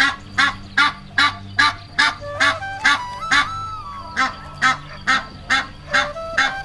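Honking, goose-like bird calls repeated at an even pace, about two or three a second, over a faint sustained tune.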